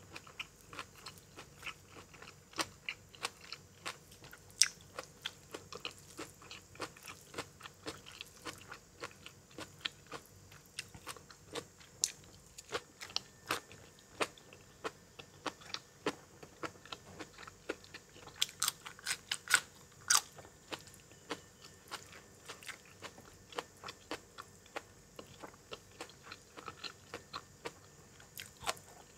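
Close-miked chewing and crunching of food in a mukbang: a dense, irregular run of sharp crunchy bites and mouth clicks from eating bamboo-shoot salad with chicken feet and crisp raw vegetables. The crunches come thicker and louder about two-thirds of the way through.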